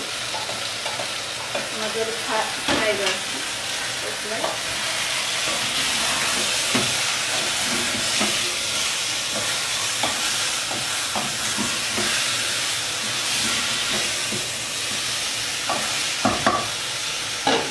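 Chicken pieces frying in a pressure cooker over a gas flame, a steady sizzle, while a wooden spoon stirs and scrapes against the pot with scattered knocks.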